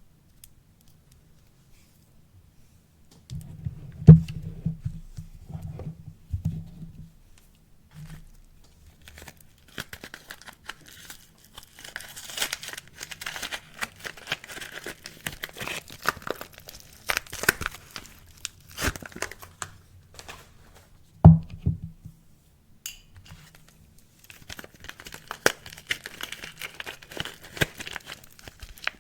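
Wrapping crinkling and tearing as bars of soap are unpacked by hand, in long rustling stretches, with a few knocks about four seconds in and one sharp knock about two-thirds of the way through as something is set down.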